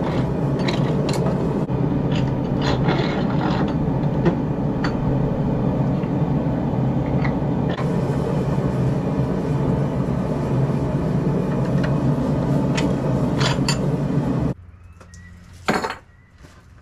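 A steady machine drone with scattered light metal taps and knocks while a forged blade is being straightened. It cuts off suddenly about two seconds before the end, leaving a faint hum and one sharp click.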